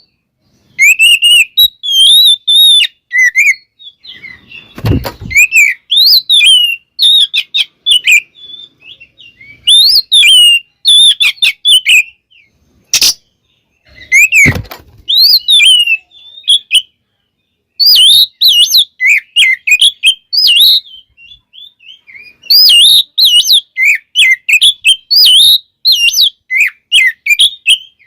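Oriental magpie-robin (kacer) singing in rapid, varied phrases of high chirps, trills and whistled slurs, with short pauses between bursts. The bird is in full, energetic song of the kind used to provoke other magpie-robins. Two brief low thuds sound under the song, about a quarter and halfway in.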